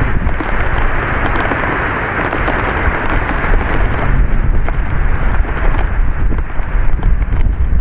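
Thunderstorm with heavy rain and strong wind gusts, the wind rumbling on the microphone. The noise is loud and steady, and grows a little louder about halfway through.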